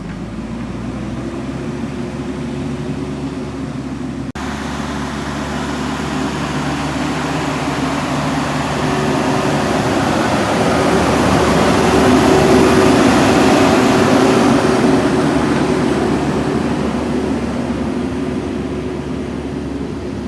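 Backhoe loader's diesel engine running steadily, growing louder to a peak about two-thirds of the way through and then easing off again. There is a brief break about four seconds in.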